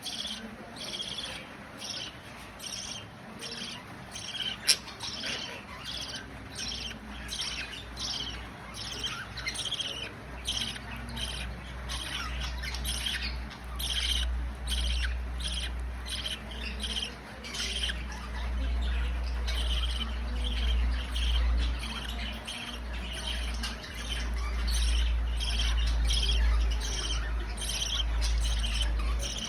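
Budgerigar chick's rapid, repeated squawking chirps, about two to three a second, the begging calls of a chick being fed by its mother. A low rumble runs underneath from about halfway, and there is one sharp click early on.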